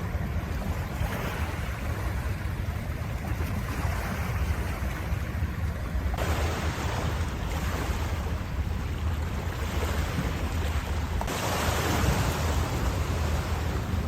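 Sea waves washing onto the shore in repeated swelling surges, over a steady low rumble of wind on the microphone.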